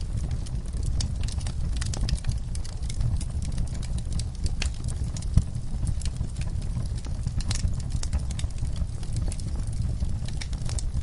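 Wood fire burning in a fireplace: a steady low rumble of flames with irregular crackles and pops, one sharper pop about five seconds in.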